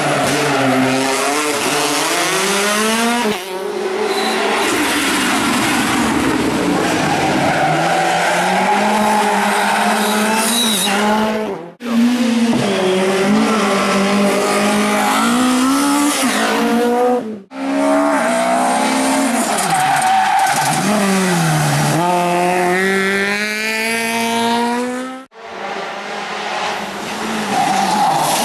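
Rally cars at speed on a special stage, engines revving hard and pitching up and down through gear changes and braking. The sound breaks off abruptly several times, about 12, 17 and 25 seconds in, as one car's pass cuts to the next.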